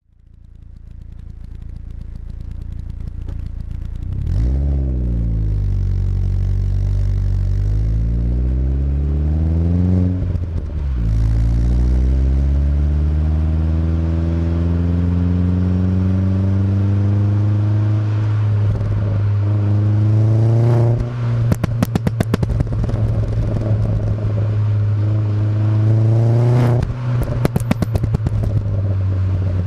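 Vauxhall Astra GSi's turbocharged Z20LET four-cylinder idling through a decat Milltek exhaust and blipped several times. After two of the later revs, as the throttle closes, it gives rapid strings of pops and crackles from its pop-and-bang map.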